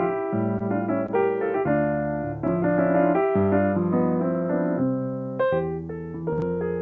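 Solo piano playing a slow sequence of sustained chords, one chord change every half second or so.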